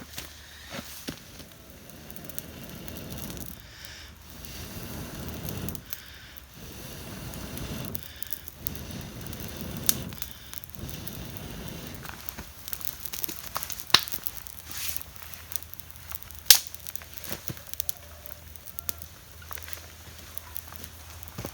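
Wood campfire crackling, with scattered sharp pops; the loudest pops come a little before halfway and about three quarters of the way through.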